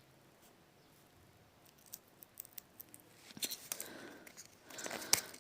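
Faint handling of small phone parts: a few light clicks from about two seconds in, then rustling and scraping near the end.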